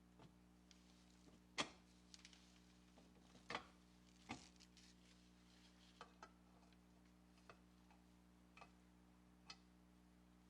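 Quiet handling noise: about a dozen light, irregular clicks and knocks, the loudest about a second and a half in, over a faint steady hum.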